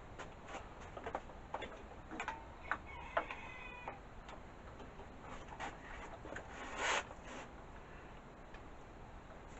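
Tools and small engine parts being handled while a mower's carburettor and air cleaner are bolted back on: scattered light clicks and taps, a brief metallic ring about three seconds in, and a louder short scrape about seven seconds in.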